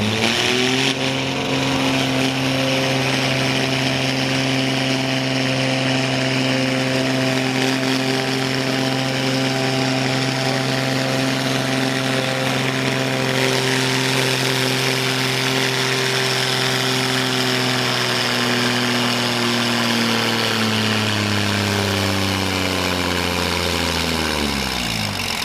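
A pulling vehicle's engine at a tractor pull climbs to full throttle and holds at high, steady revs for about twenty seconds. Near the end its pitch sinks and then drops sharply as it winds down.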